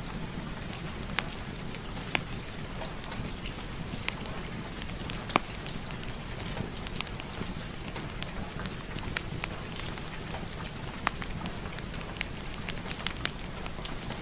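Steady rain with a wood fire crackling in a fireplace: a continuous hiss and rumble with sharp pops scattered irregularly through it, the loudest about five seconds in.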